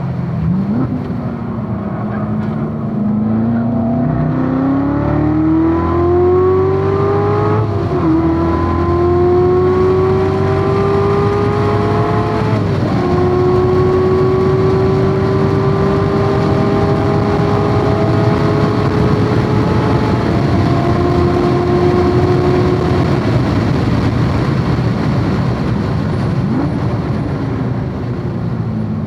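Supercharged 6.2-litre LT4 V8 of a C7 Corvette Z06 at full throttle on track. The revs climb hard, drop sharply at upshifts about eight and thirteen seconds in, and keep pulling; after about twenty seconds the throttle lifts and the revs fall away. A steady rush of wind and tyre noise runs underneath.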